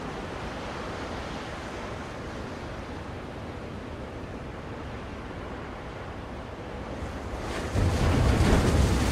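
Ocean waves washing on a shore in a steady rush of surf, with a louder, deeper wave surging in near the end.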